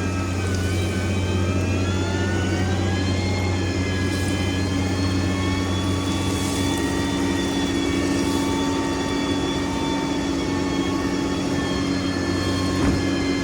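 Heavy diesel construction machine engine running steadily, with a high whine that drifts slowly in pitch over the low engine hum. One short knock near the end.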